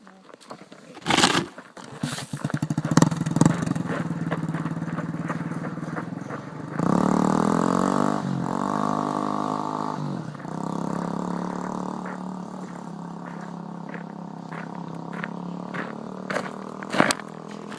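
Dirt bike engine being roll-started: it catches about two seconds in, is revved up around seven seconds in, then keeps running steadily. Sharp clunks come near the start and near the end.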